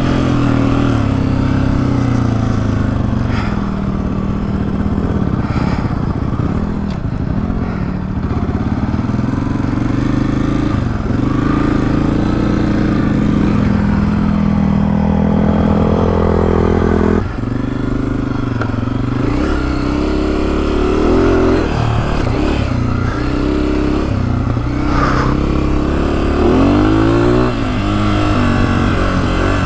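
Honda CRF250F dirt bike's single-cylinder four-stroke engine running under load off-road, its pitch rising and falling with throttle and gear changes. The throttle snaps shut about seventeen seconds in, then the engine pulls again.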